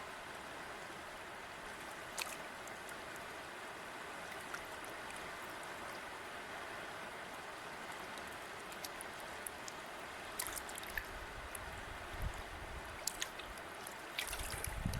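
A river flowing steadily with a constant rushing sound, and small splashes and drips ticking through it in the second half. A low rumble rises in near the end.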